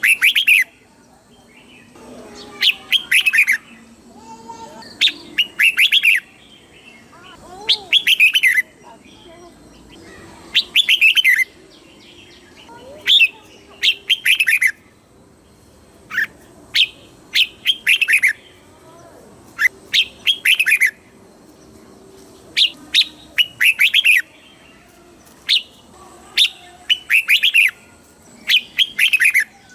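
Red-whiskered bulbul singing: short, bright, chirpy phrases repeated every second or two.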